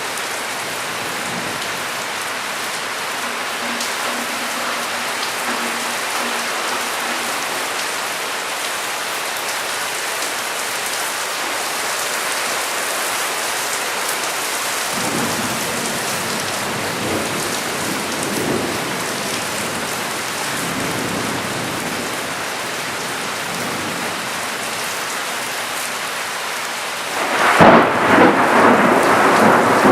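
Heavy rain falling steadily during a thunderstorm, with thunder rumbling from about halfway through and a sudden loud thunderclap near the end.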